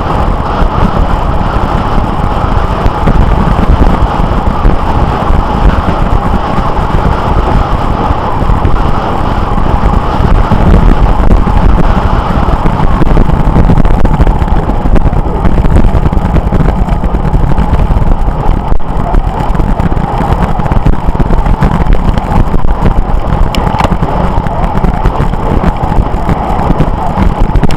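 Steady, loud wind rush and road noise on a bicycle-mounted camera's microphone while riding.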